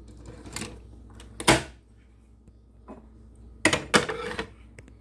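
L'Or capsule coffee machine being handled as a pod is loaded: sharp plastic clicks and clacks, the loudest about one and a half seconds in and two more close together near the end.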